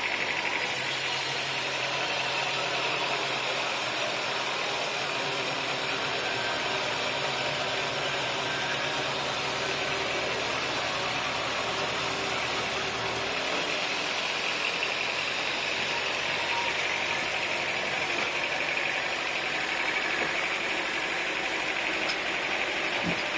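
Sawmill engine running steadily, with a deeper low hum that cuts off about thirteen seconds in.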